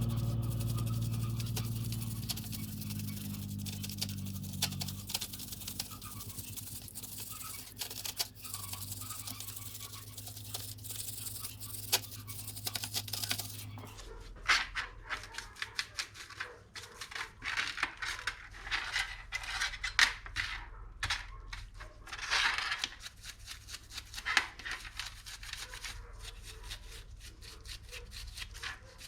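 Motorcycle drive chain being scrubbed with a stiff brush: quick, irregular brushing strokes from about halfway on. Before that, a steady hiss over a low hum that fades away.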